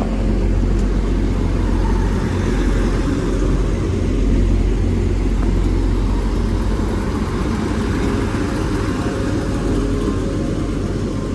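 Class 175 diesel multiple unit at the station, its diesel engines giving a steady low rumble.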